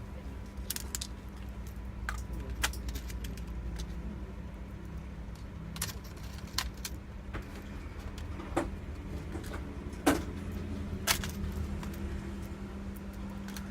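Scattered sharp clicks and taps of small screws, a screwdriver and plastic panels as a Lenovo S400 laptop's bottom casing is closed and screwed back together. A steady low hum runs underneath.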